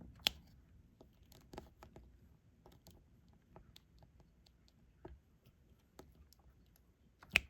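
Irregular small plastic clicks and taps of diamond-painting work: a drill pen picking up resin drills and pressing them onto the adhesive canvas, with two sharper clicks about a quarter second in and near the end.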